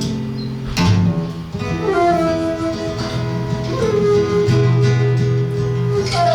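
A flute and seven-string guitar duo playing live. A loud strummed guitar chord comes about a second in, then long held melody notes that slide up or down into pitch over the guitar's low bass notes.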